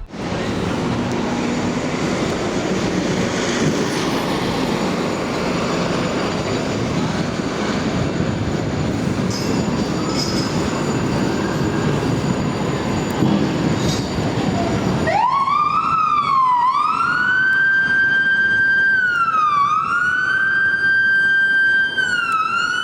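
Loud, steady rumbling street and engine noise, then about fifteen seconds in a fire engine's Federal Signal PA300 electronic siren starts up and wails, its pitch rising, holding high, dipping and rising again over and over.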